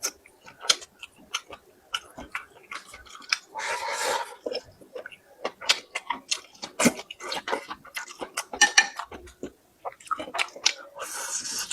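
A person eating, heard close up: chewing and crunching food, with many sharp wet clicks and smacks of the mouth and short bursts of crunching.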